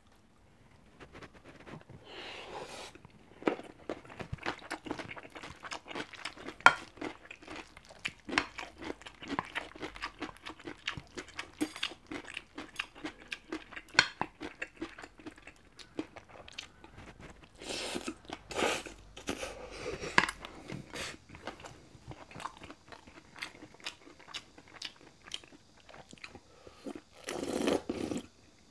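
Close-miked mukbang chewing of beef bibimbap, wet chewing with many crisp crunches from vegetables and cubed radish kimchi. Near the end comes a longer, louder sip as the bowl of soybean paste stew is lifted to the mouth.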